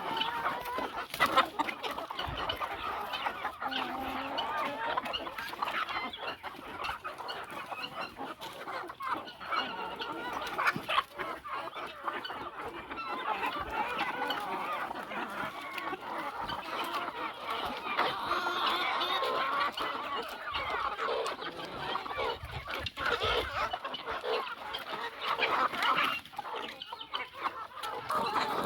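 A flock of chickens clucking continuously, many birds' calls overlapping.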